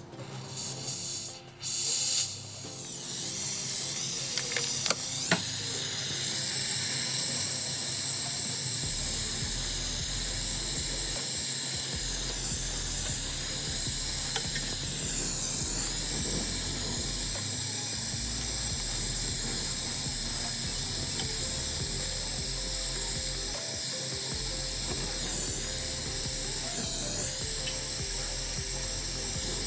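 Steady hiss of gas under pressure rushing from a line or nozzle during refrigerator compressor work, starting about two seconds in after a few short knocks.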